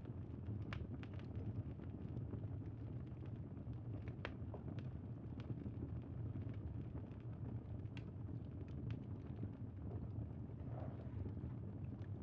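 Crackling bonfire: a steady low noise of burning with irregular sharp pops and crackles scattered through it.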